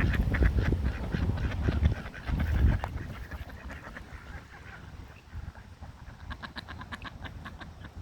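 Ducks calling in fast runs of short quacking notes, about seven a second, near the start and again in the last two seconds, an unusual chatter rather than the familiar slow quack. A low rumble sits under the first few seconds.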